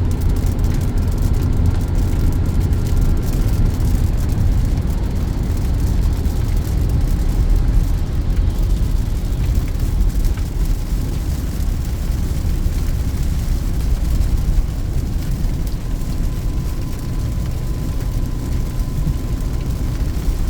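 Cabin noise of a Peugeot 2008 with the four-speed AL4 automatic driving at highway speed: a steady low rumble of engine and tyres on the road.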